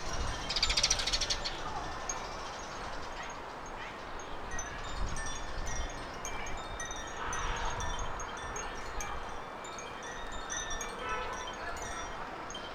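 Small garden birds chirping and twittering with many short high notes, with a fast trill about a second in.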